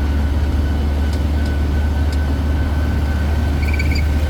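Steady low drone of a tourist road train's engine and running gear while it drives, with a faint steady whine above it. A brief cluster of high chirps comes near the end.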